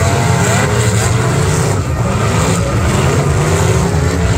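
Several demolition derby cars' eight-cylinder engines running together, loud and continuous, with pitch rising and falling as they rev.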